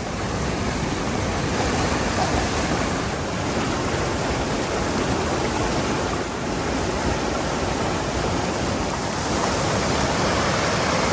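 Rushing river water, a steady full rush of flowing water.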